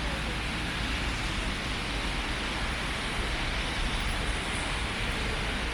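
Steady rain and traffic ambience: an even hiss with a low rumble underneath.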